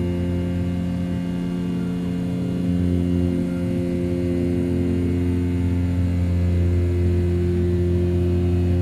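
500 W brushless spindle of a desktop CNC mill at 6000 rpm, its end mill roughing A7075 aluminium: a steady, loud machine hum with a low drone and several constant higher tones above it.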